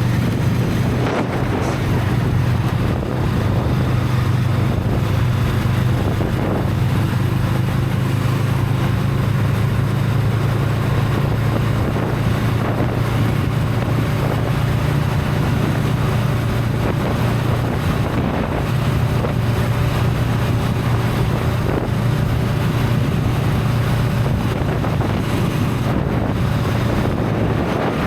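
Honda Rebel 500's parallel-twin engine on its stock exhaust, running at a steady cruising pace with small changes in pitch. Wind rushes over the microphone.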